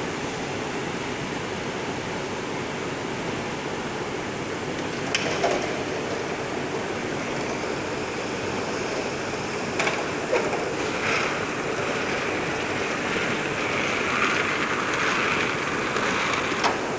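Semi-automatic drum machine running steadily with a mechanical rush, a few sharp clicks, and a thin high whine that comes in about halfway through.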